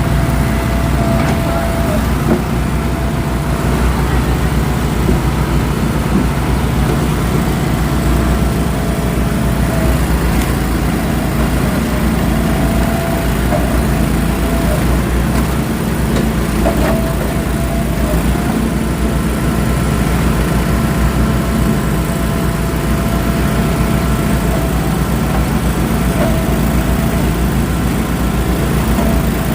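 Eastonmade Axis firewood processor running steadily under load, its engine holding a constant speed, with a whine that comes and goes several times.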